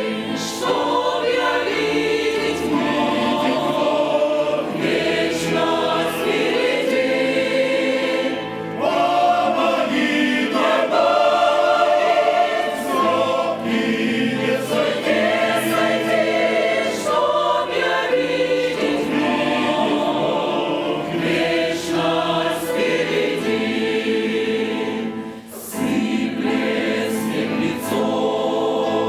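Church choir singing, many voices together, with two brief breaks in the sound: one about eight seconds in and one near the end.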